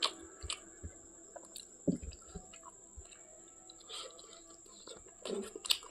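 A person eating chicken curry with garlic close to the microphone: irregular wet chewing and smacking with occasional sharper bites, a louder cluster near the start and again near the end.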